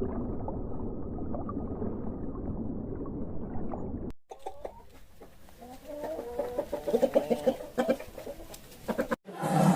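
Animal calls from two separate clips: about four seconds of a rough, low-pitched rumbling sound, then after a sudden cut a quick run of short pitched calls.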